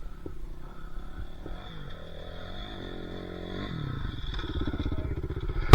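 Dirt bike engine revving, its pitch rising and falling through the middle and the sound growing louder toward the end, then a sudden loud blast right at the end.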